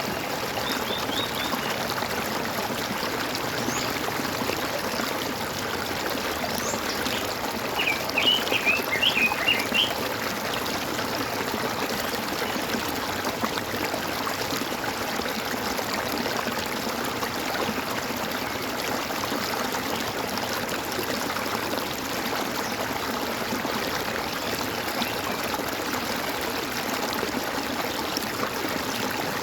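Stream water trickling and gurgling steadily, with a short burst of bird chirps about eight seconds in and a few faint ones earlier.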